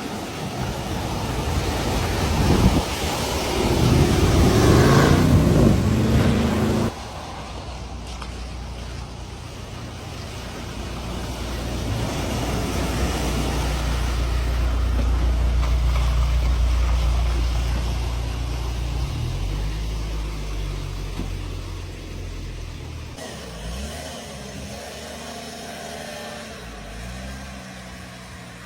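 Loud rushing water and wind noise, cut off abruptly about seven seconds in. A car engine then runs low and steady as the car crosses a flooded ford, swelling and fading, with some revving near the end.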